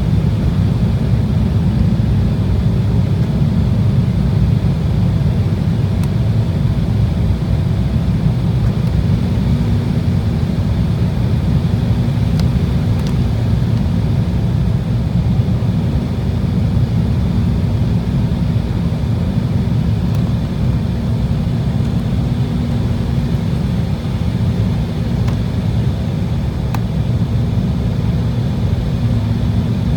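Steady cabin noise inside an Embraer E190 jet airliner in flight: a constant low roar of the GE CF34 turbofan engines and airflow, with a steady hum running through it.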